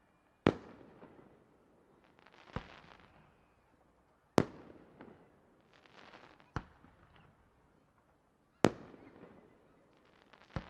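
Aerial firework shells bursting one after another, about one sharp bang every two seconds (six in all), each followed by a trailing crackle as it fades.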